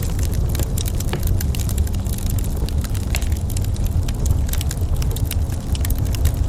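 Wood fire burning in a fireplace, crackling with many quick, irregular pops over a steady low rumble.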